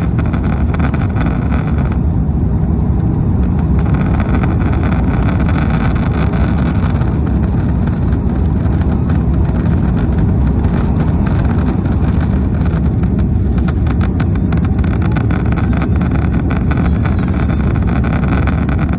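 Airbus A330 jet engines running at climb power, a steady loud roar heard through the cabin wall, with the phone recording it rattling against its mount in a stream of small clicks.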